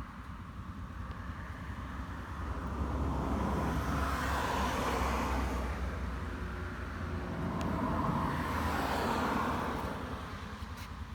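MV Agusta Brutale 1090 RR's 1078 cc inline-four engine running at idle, with two slow swells of louder sound about four and eight seconds in.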